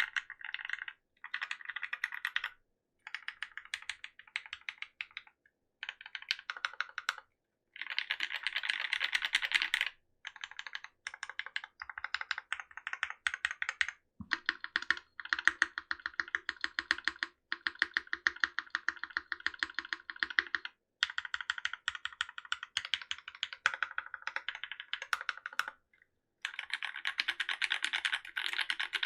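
Typing on a Linworks Whale75 custom mechanical keyboard with Gateron Merlot linear switches and GMK Bingsu keycaps, no foam inside: fast, clacky keystrokes in bursts of a few seconds with short pauses between them.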